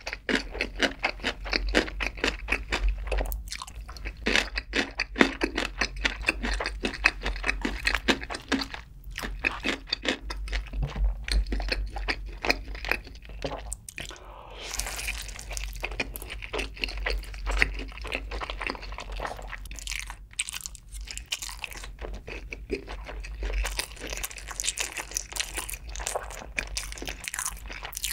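Close-miked eating: rapid, crisp crunching and chewing of cubed radish kimchi (kkakdugi), then about halfway a bite into sauce-coated sweet fried chicken (yangnyeom chicken) followed by more crunchy chewing.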